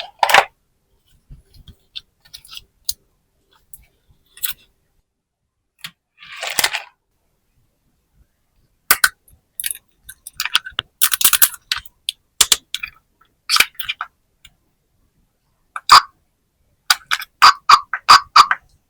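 Small plastic toys and packaging handled: scattered clicks and taps with a short rustle in the middle. Near the end a quick run of short repeating tones starts.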